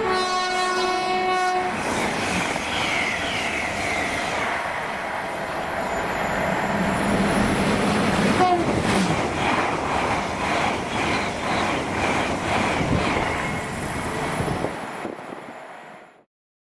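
Great Western Railway Hitachi Intercity Express Trains passing at speed. A train horn sounds briefly at the start, then comes the loud rush of passing trains with falling tones and wheels clattering over rail joints, which fades out near the end.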